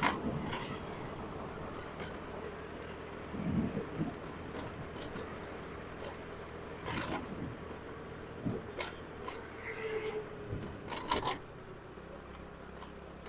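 Faint vehicle and street sounds with a low steady hum, broken by scattered short knocks and clicks.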